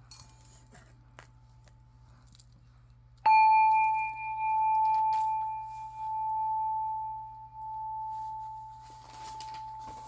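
A metal chime struck once about three seconds in, ringing on with one clear tone that swells and wavers in loudness as it slowly fades. Light rustling of handled cards or paper near the end.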